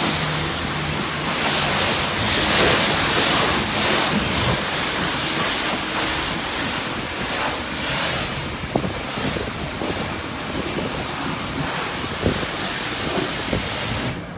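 High-pressure wand at a self-service car wash spraying water onto a car, a loud, steady hiss that swells and fades as the jet moves over the bodywork, with a few light knocks; the spray cuts off suddenly near the end.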